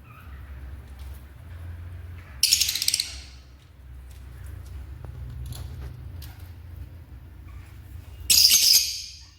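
Lovebirds giving shrill, rapid chattering calls in two loud bursts, about two and a half seconds in and again near the end, with fainter chirps between, over a steady low hum.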